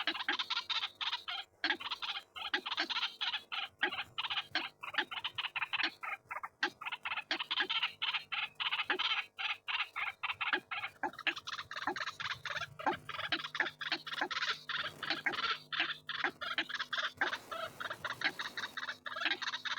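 White-breasted waterhen calling: a rapid, unbroken run of harsh, croaking repeated notes.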